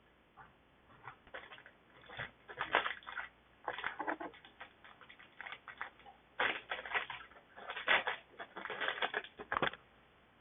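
Foil booster pack of Digimon trading cards being crinkled and torn open by hand, with cards handled. The sound comes as irregular spells of crackly rustling, busiest in the second half.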